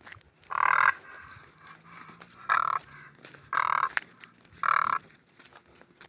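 A crane calling four times in short, hoarse calls, each about a third of a second long, spaced one to two seconds apart.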